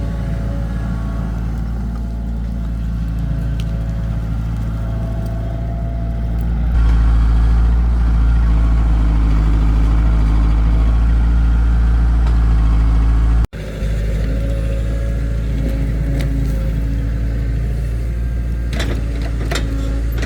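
Engine running steadily with a low hum that gets louder about seven seconds in, then breaks off for an instant about two-thirds of the way through and resumes.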